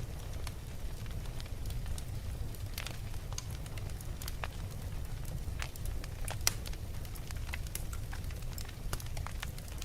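Fire burning in a fireplace, crackling with scattered sharp pops over a steady low rumble; one pop about two-thirds of the way through is louder than the rest.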